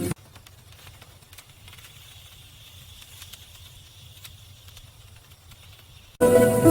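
Guitar music stops suddenly, leaving faint outdoor ambience with a low rumble, a soft hiss and a few scattered light ticks. The music comes back abruptly near the end.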